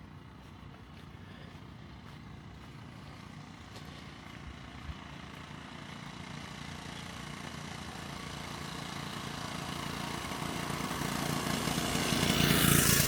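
A motor vehicle approaching, growing steadily louder, and passing close by near the end, its pitch dropping as it goes past.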